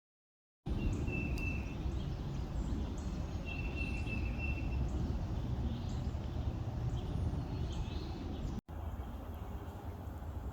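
Small birds calling in short, repeated high chirps and whistled notes over a steady low rumble of background noise. The calls stop after a brief dropout near the end, and the rumble goes on more quietly.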